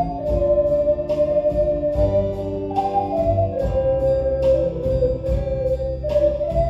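Ocarina ensemble playing a slow melody in harmony, the ocarinas' pure held notes stepping between pitches, over a backing accompaniment with bass notes and a steady beat.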